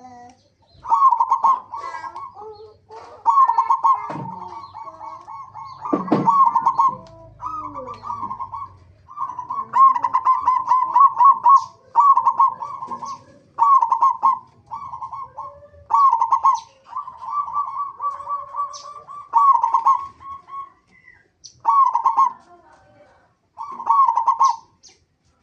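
Zebra doves (perkutut) cooing: short bubbly staccato phrases on one pitch, repeated about every one and a half to two seconds, some drawn out into longer rolling trills.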